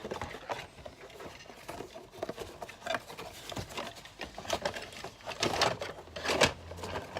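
Hands handling a plastic Hot Wheels Hot Line Big Tipper toy train accessory: irregular clicks, taps and rustles, with two louder knocks about five and a half and six and a half seconds in.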